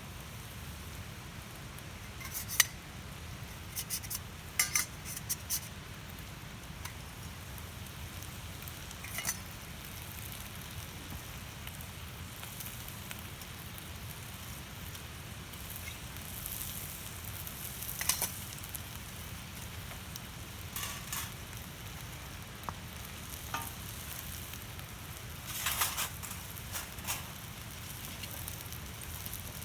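Food sizzling on a griddle plate over a campfire, with a spatula or utensil scraping and clinking against the metal every few seconds.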